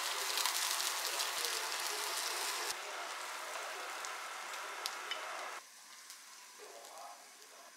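Egg-battered gimbap slices sizzling in an oiled frying pan, with a few light clicks of wooden chopsticks against the pan. The sizzle thins out partway and cuts off suddenly about two-thirds of the way through.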